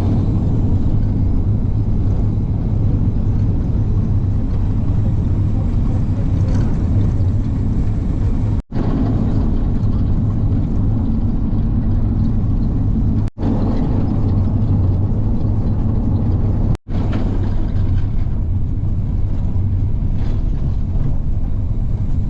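Tour bus engine and road noise heard from inside the moving bus: a steady low rumble, cut off for an instant three times.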